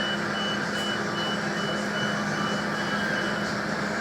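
Steady high-pitched door beeper of a 3100 series diesel railcar at a station stop, about two and a half beeps a second, stopping about three and a half seconds in, over the steady hum of the railcar's engine and equipment.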